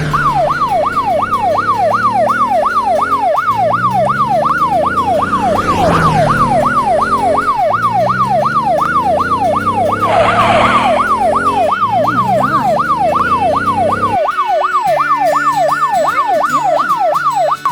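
Cartoon emergency-vehicle siren in a fast yelp, rising and falling about three times a second. A lower backing sound runs under it and drops away about fourteen seconds in.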